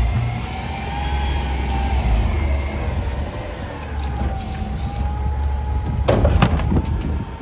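Garbage truck engine running with a steady low rumble and a wavering whine, with a short burst of clanking about six seconds in.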